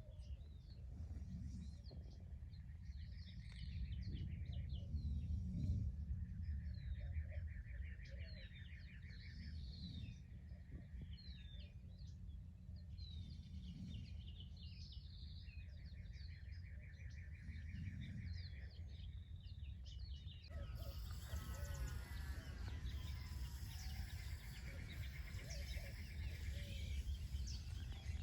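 Wild birds singing and calling: a trilled phrase repeats every several seconds among many short chirps, over a steady low rumble. About two-thirds of the way in, the birdsong becomes fuller and busier.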